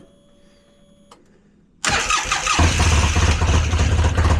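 Polaris RZR side-by-side engine being started: it cranks and catches almost at once about two seconds in, then settles into a steady idle with a strong low rumble. The engine had locked up after losing oil pressure and is suspected of having a rod welded to the crank; it has been freed and is now running on Lucas oil.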